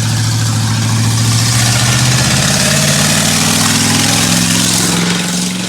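A car's engine pulling hard under heavy throttle as the car accelerates away, its note climbing steadily over several seconds, with a loud hiss over it.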